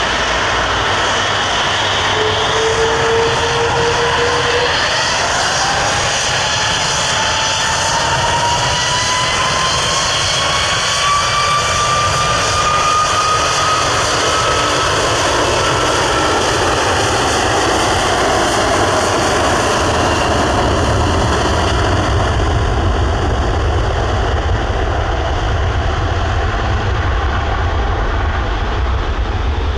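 Airbus A330 twin turbofan engines spooling up: a whine that climbs steadily in pitch for about fifteen seconds and then levels off, while a deep rumble builds up under it in the last third.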